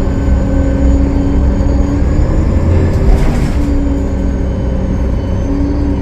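Diesel bus under way, a 2013 Gillig Low Floor with a Cummins ISL9 engine: a steady heavy rumble with a drivetrain whine that changes pitch about two seconds in and again near the end, and a short hiss about three seconds in.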